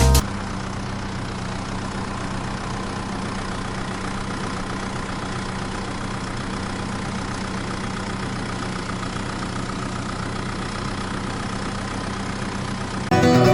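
Mini tractor engine running steadily at an even speed, a constant low drone that stops abruptly near the end.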